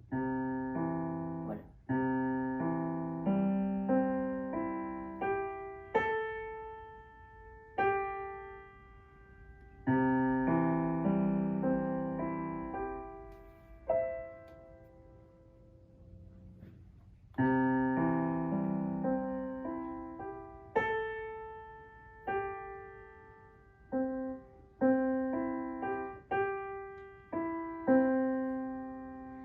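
Solo piano playing a simple student piece: short phrases of melody over chords, each note struck and then ringing away. There is a pause of a few seconds about halfway through, and then the phrases start again.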